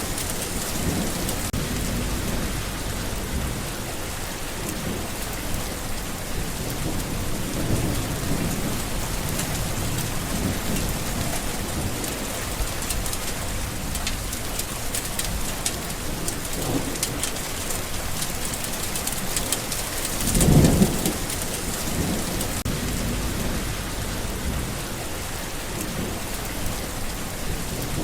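Steady rain pouring down, with low rolls of thunder: faint rumbles a third and halfway through, and the loudest thunder roll about three-quarters of the way in.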